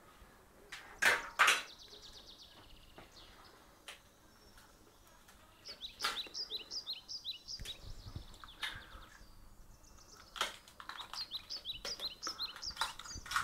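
Eggs being cracked against the rim of a plastic mixing bowl: sharp shell taps, the loudest two in quick succession about a second in, more a few seconds apart later. Twice, a spell of rapid high chirping twitter runs behind them.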